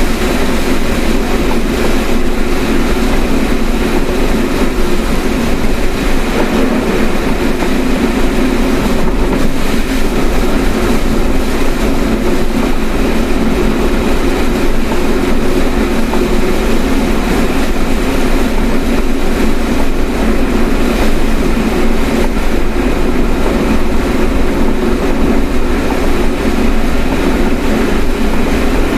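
Steady road and engine rumble heard inside a moving car's cabin, unbroken and fairly loud.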